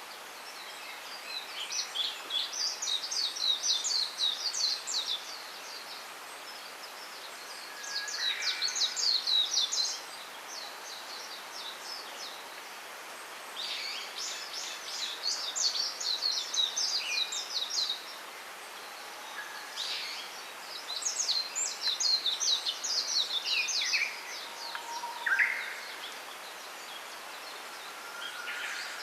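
A songbird singing repeated phrases of rapid high chirps, each lasting a few seconds with short pauses between, plus a few lower single calls, over a steady soft hiss of outdoor background.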